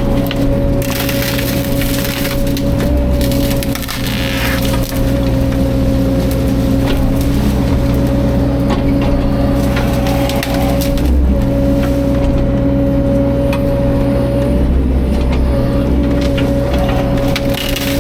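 CAT 305.5 mini excavator running steadily under work, its engine and hydraulics giving a constant hum with a high whine on top, while wood crackles and snaps.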